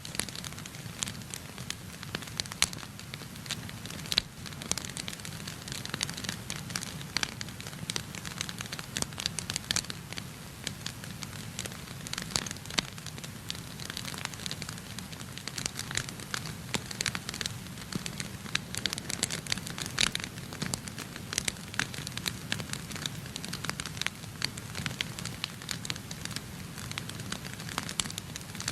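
Wood fire burning in a fireplace, with many irregular crackles and snaps over a steady low rumble of the flames.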